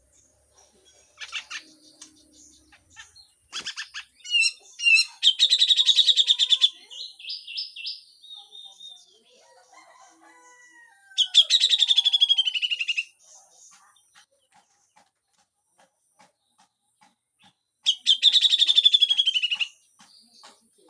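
Grey-cheeked bulbul (cucak jenggot) giving its harsh, rapid rattling 'besetan' call three times, each burst about one and a half to two seconds long and dropping in pitch at the end, with a few shorter chirps before the first.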